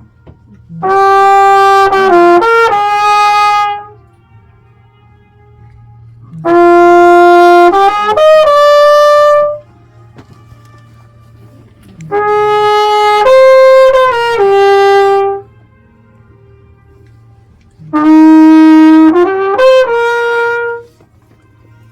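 A trumpet plays a slow song in four phrases of a few held notes each. In the pauses between phrases, a faint echo of the trumpet comes back from the surrounding mountain walls.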